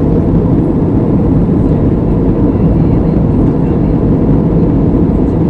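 An airplane's steady, loud noise, heavy in the low end and unbroken.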